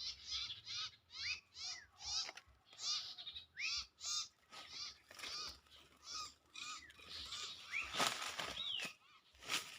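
Small songbird calling a fast series of short, repeated chirp notes, about three a second, with a couple of sharp clicks near the end.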